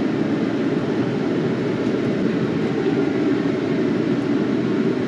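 Takeuchi excavator's diesel engine running steadily, a continuous even rumble with no breaks.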